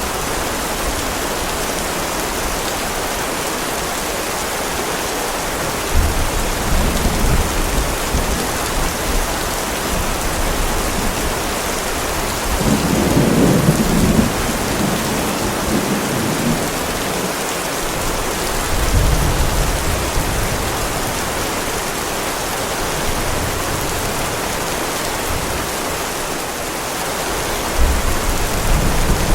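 Heavy rain hissing steadily, with thunder rumbling low several times, the loudest roll about halfway through.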